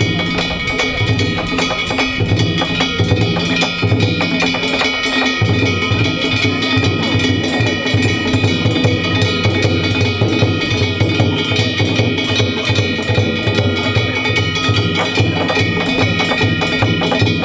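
Danjiri bayashi festival music: a large drum beaten in a fast, steady rhythm, with hand gongs ringing over it.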